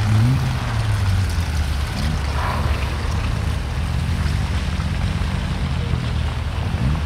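A small 4x4's engine running off-road under load on a rutted slope, with short rises in revs near the start, about two seconds in, and near the end.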